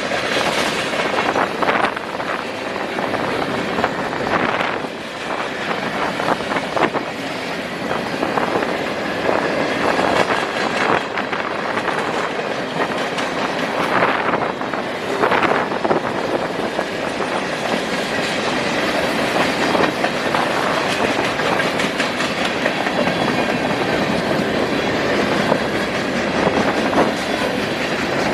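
Manifest freight train's cars rolling past, steel wheels clicking over the rail joints in a continuous clickety-clack.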